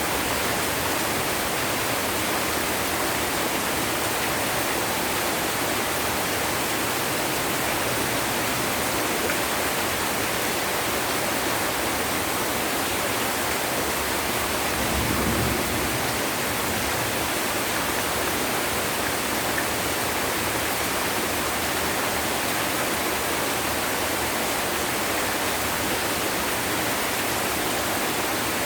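Heavy rain falling in a steady, even downpour. A brief low rumble rises about halfway through.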